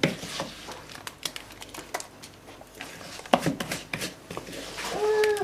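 Crinkling, rustling and small clicks from hands pressing a lard, seed and nut mixture into pots, with one sharper click a little over three seconds in.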